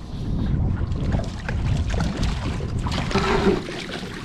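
Wind buffeting the microphone over the rumble of a small boat on the water, with a louder rush of noise about three seconds in.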